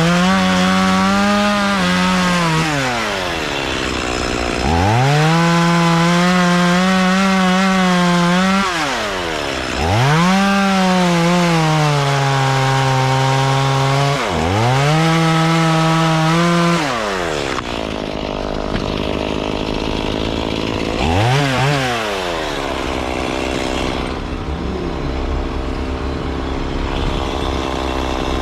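Two-stroke chainsaw throttled up to full revs four times, each for a few seconds, and let fall back between them. The pitch sags partway through the third as the chain bogs down in the wood. Later it gets one short blip of throttle and then runs on at a lower, steady note.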